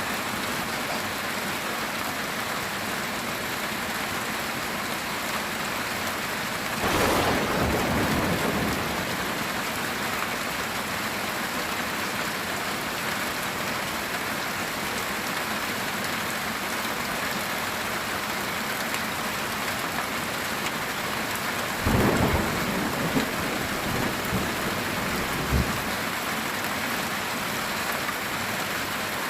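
Heavy rain drumming steadily on a metal tin roof. Thunder rumbles about a quarter of the way in, and a second rumble with sharper cracks comes about two-thirds of the way through.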